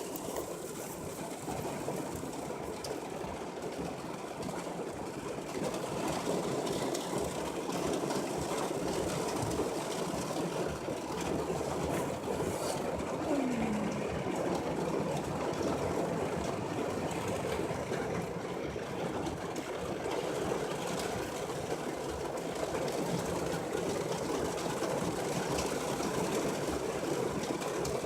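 Heavy rain falling hard, a steady dense hiss and patter that thickens a little about five seconds in.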